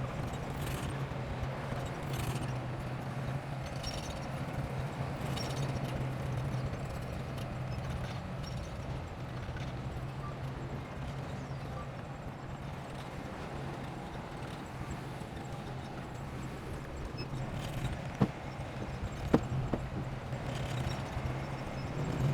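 Bulldozer running steadily, with its engine hum under a recurring metallic clatter and two sharp knocks near the end.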